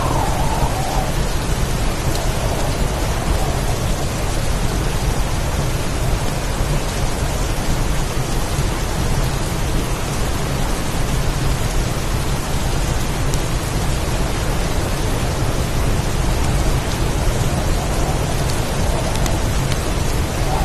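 Heavy rain pouring steadily in a storm, with a constant low rumble underneath.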